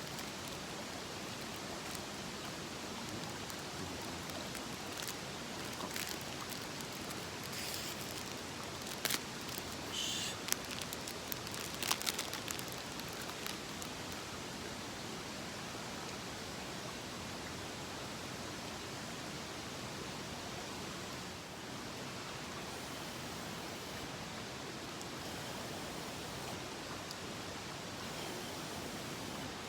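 Mountain stream rushing steadily, with a few short clicks and knocks about halfway through.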